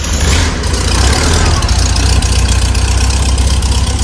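Air-cooled flat-four engine of a 1973 Volkswagen Type 181 idling steadily on fresh oil, loud and rumbling.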